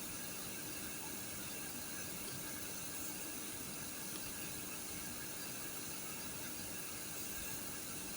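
Steady background hiss with a faint steady hum under it, unchanging throughout, with no distinct events.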